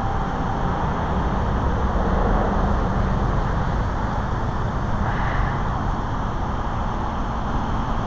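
Big Thompson River rushing steadily, running full of water. A single held chime note stops under a second in.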